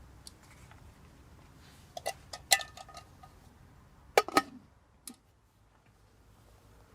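Metal cookware clinking: a quick run of sharp clinks and knocks about two seconds in, some ringing briefly, then two louder clanks a little after four seconds and a last small tap.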